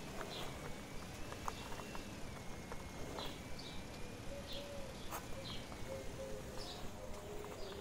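Birds chirping in short high chirps about once a second over a steady outdoor hiss, with a few light clicks.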